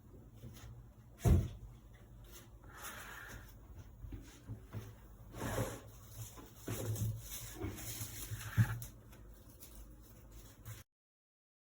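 A few knocks and clunks of objects being handled, with soft rubbing and rustling in between; the sound cuts off abruptly near the end.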